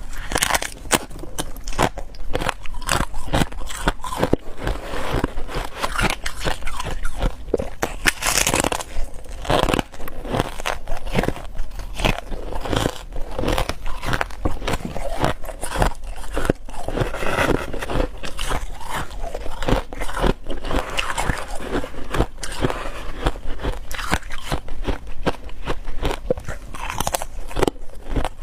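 A person biting and chewing ice: continuous crunching with many sharp cracks in quick succession.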